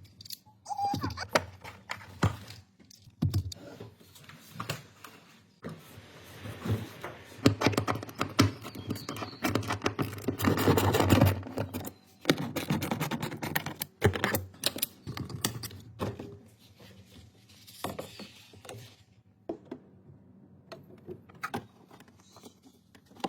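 Irregular clicks, knocks and clatter of hand tools and metal parts being handled, with a denser, louder rattling stretch about ten seconds in.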